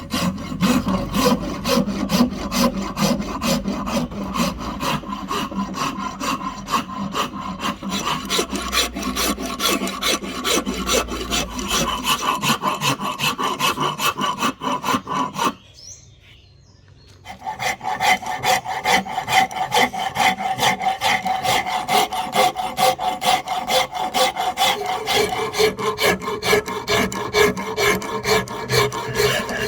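Hand rasp or file shaping a wooden axe handle, scraping in quick repeated strokes, with a pause of about two seconds midway.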